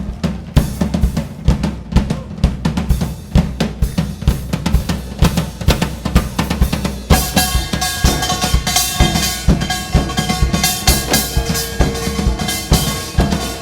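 Live drumming in a fast, driving rhythm, with deep bass-drum hits under dense strikes. About halfway through, a held melody line joins over the drums.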